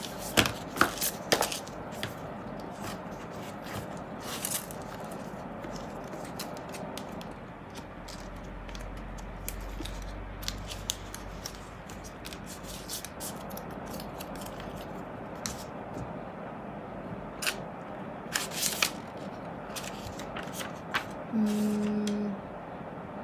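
Unboxing handling noise: paper booklets and box packaging rustling and scraping, with scattered sharp clicks and light knocks, a cluster of them in the first second and a half. A short low hum about a second long near the end.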